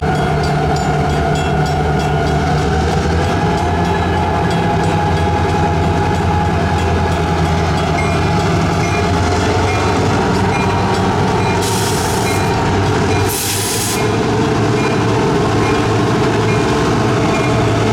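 Diesel locomotives of a CN freight train running close by, a loud steady engine drone. Two short bursts of hiss come near the middle.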